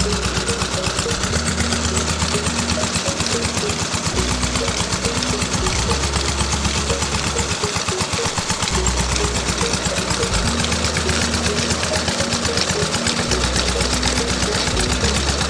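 Small electric motor driving a homemade model chaff cutter, running steadily with a rapid, even mechanical clatter.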